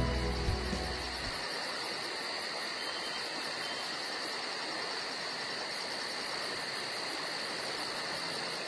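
Insects chirping in a steady, very high pulse of about three or four chirps a second over a constant hiss, as the tail of background music dies away in the first second or so.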